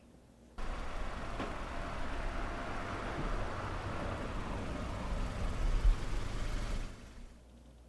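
A car's engine running steadily, starting abruptly about half a second in and fading away near the end, with a single knock shortly before it fades.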